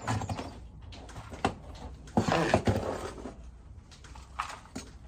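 Rustling and scraping from compost and plastic seed-cell trays being handled, with a few sharp knocks.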